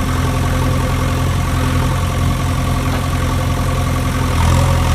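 A heavy vehicle engine idling steadily with an even, fast pulse, coming up slightly louder near the end.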